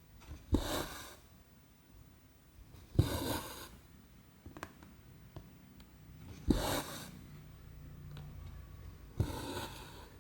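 Cross-stitch needle and cotton thread being drawn through 14-count Aida canvas, four stitches about three seconds apart. Each is a sharp tap followed by a swish of about half a second.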